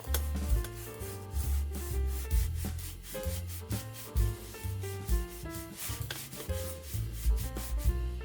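Hand scrubbing of metal axle parts with a Scotch-Brite abrasive pad, a quick back-and-forth rubbing, over background music with a moving bass line.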